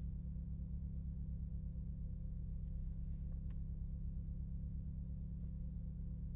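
Renault Megane RS Trophy's turbocharged four-cylinder engine running steadily, a constant low drone with no revving. A faint click comes about halfway through.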